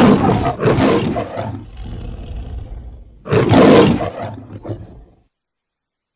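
Lion roaring: a loud roar already going at the start and a second right after it, quieter rumbling grunts, then another loud roar about three seconds in that tails off into a few short grunts and stops about five seconds in.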